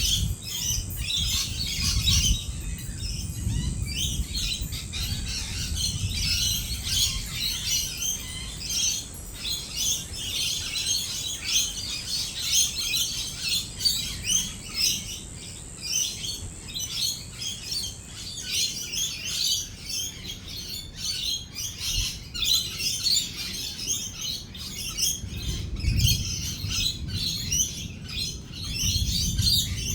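A flock of lorikeets chattering and screeching continuously at a feeding spot, with low rumbles of distant rolling thunder near the start and again near the end.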